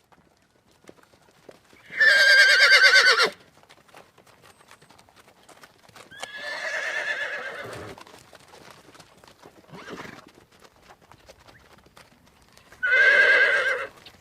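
Horse neighing: two loud, wavering whinnies about ten seconds apart, with a softer, longer one and a brief faint one between them, and faint knocks in the gaps.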